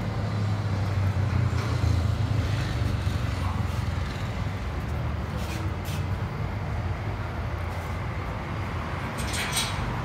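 Opel Astra J's engine idling through its custom-built exhaust: a steady low exhaust hum, a little louder in the first couple of seconds, with a few faint clicks about halfway and near the end.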